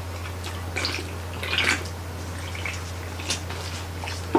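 Close-up eating sounds of roast pig (lechon): wet chewing, lip smacks and crunches of crispy skin in several short separate bursts, over a steady low hum.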